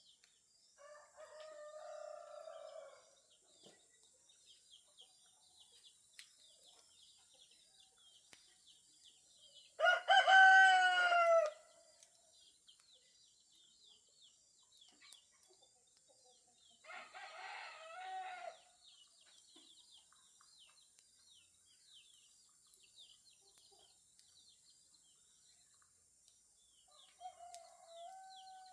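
Roosters crowing four times, the loudest and nearest about ten seconds in, the others fainter and farther off. Small high bird chirps and a steady high-pitched background tone run underneath.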